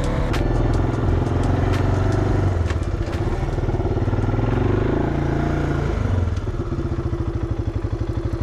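ATV engine running under way, a steady fast-pulsing drone with scattered sharp clicks and rattles.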